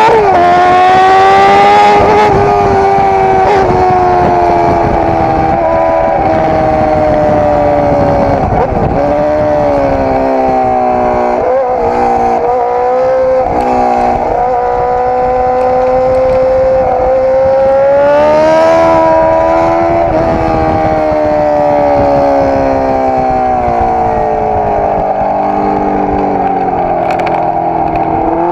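Suzuki GSX-R600's inline-four engine at high revs on track, its pitch sliding down, dipping and climbing again with throttle and gear changes, over a steady rush of wind.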